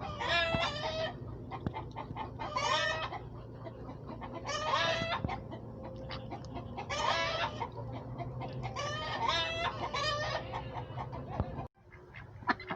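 Domestic chickens in a coop calling loudly, about five calls of roughly a second each at intervals of about two seconds, over a steady low hum. The sound cuts off abruptly near the end.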